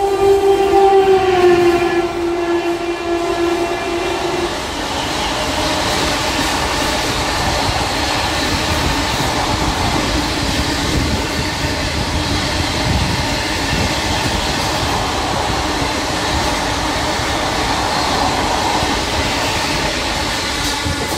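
Gujarat Superfast Express running through the station at speed. The locomotive's horn sounds for the first few seconds and its pitch drops as it passes, then it cuts off. After that comes the steady loud rush and rumble of the coaches going by, with wheels clacking on the rail joints.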